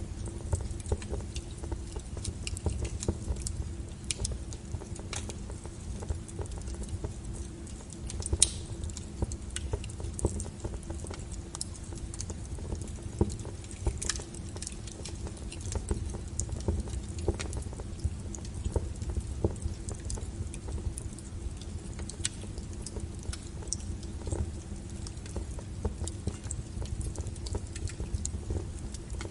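Wood fire burning, with irregular crackles and sharp pops over the low rumble of the flames. The loudest pops come about eight and fourteen seconds in.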